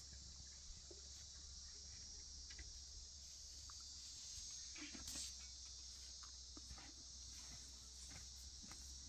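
Faint, steady chirring of crickets, with a few soft knocks about halfway through.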